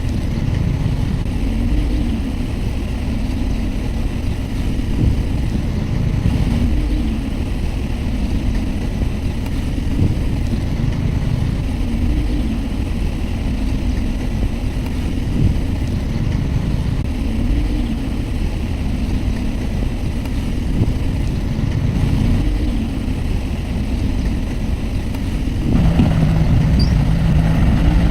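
Heavy diesel construction-machine engine running steadily with a low rumble that swells and eases every couple of seconds. Near the end it grows louder and a steady hum joins it.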